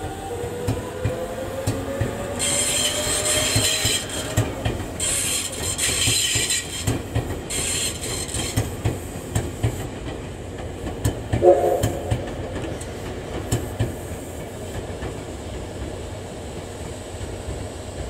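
Electric passenger train rolling slowly past: a steady rhythm of wheel clicks over rail joints, with a faint rising motor whine in the first few seconds and three bursts of high-pitched wheel squeal. A short pitched tone sounds about eleven and a half seconds in.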